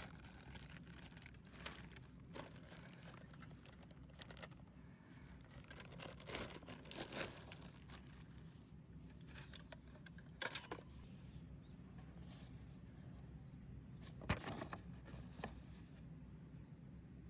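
Irregular rustling and tearing, as of material being handled by hand, with a few sharper tears about seven, ten and fourteen seconds in, over a low steady hum.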